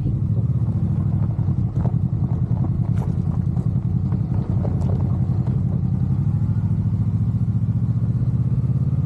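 Motorcycle engine running steadily with an even low pulse, a few faint clicks over it; its note rises slightly near the end.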